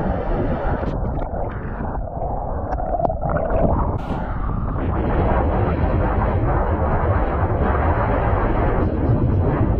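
Wind buffeting the microphone of a camera riding on a moving bicycle: a loud, steady rush of deep, rumbling noise.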